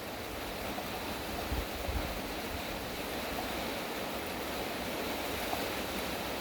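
Heavy rain falling steadily, a dense even hiss, with a brief low rumble about a second and a half in.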